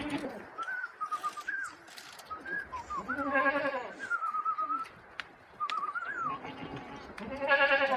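Livestock bleating twice, once about three seconds in and again near the end, with thin warbling chirps in between.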